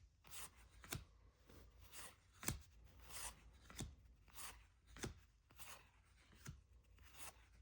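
Faint, regular flicks and slides of cardboard trading cards, about one to two a second, as baseball cards are pulled off a stack one by one.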